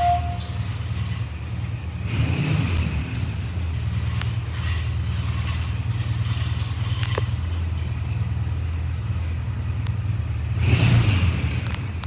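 Suzuki GSX-S150's single-cylinder four-stroke engine running steadily at idle, with two short throttle blips: one about two seconds in and a stronger one near the end.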